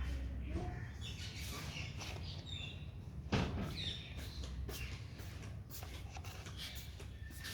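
Indian ringneck parakeet giving several short, high chirps, among scattered light clicks and one louder sharp noise about three seconds in.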